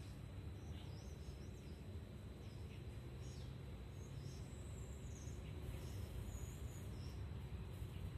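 Short, high bird chirps scattered throughout, faint, over a steady low background rumble.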